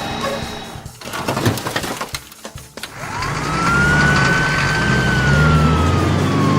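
Cartoon vehicle sound effects: a rapid run of mechanical clicks and clanks, then from about three seconds in a loud engine rumble with a whistling tone that sweeps up quickly and slowly falls away.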